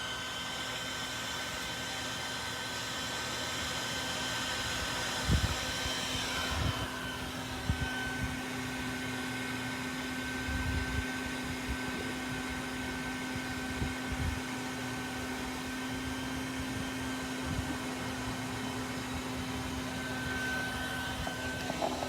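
Steady hum of a bee-removal vacuum's motor with a high whine over it, the whine sliding in pitch about six seconds in. A few low bumps sound on the microphone.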